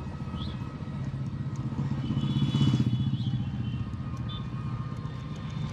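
Motorcycle engine running at a steady low road speed, heard through a lapel mic inside the rider's helmet, getting louder about two to three seconds in.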